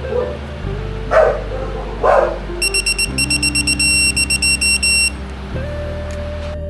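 A dog barking twice over background music, then rapid high electronic beeping for about two and a half seconds.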